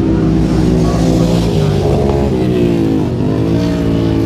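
Racing motorcycle engines running hard. Their pitch falls from about two seconds in and climbs again just after three seconds, as the bikes come off the throttle and then accelerate.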